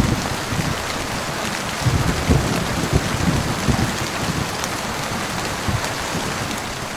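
Heavy rain falling steadily, a dense hiss of drops, with a low rumble of thunder rising and falling beneath it in the first half.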